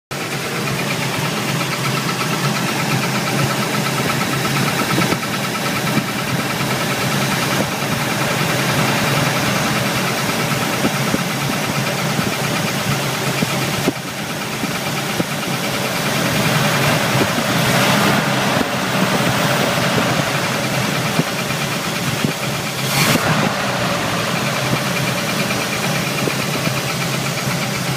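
Pontiac 468 V8 (a bored and stroked 455) running with a rapid, evenly repeating chirp from inside the engine, present even with the belts off. The owner suspects a galled #8 exhaust hydraulic roller lifter with a flat spot on its roller.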